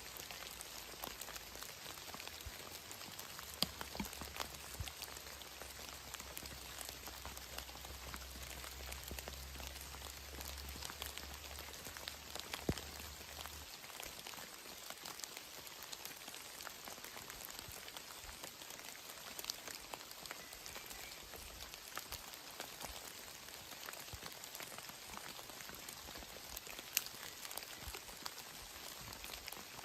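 Steady rain pattering, with many single drops ticking sharply on near surfaces.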